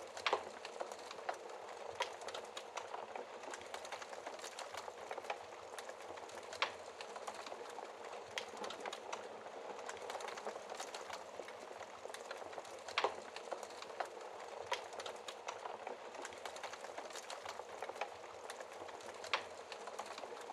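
Wood fire crackling steadily in a fireplace: a dense hiss of small ticks and snaps, with four louder pops a few seconds apart.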